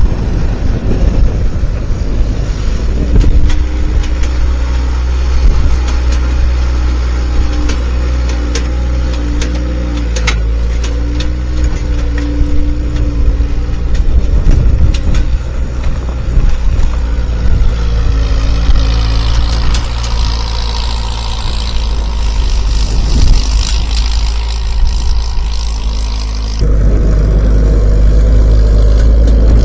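Skid steer's diesel engine running under load, its pitch shifting as it works, with scattered clanks and knocks. The sound changes abruptly about 27 seconds in.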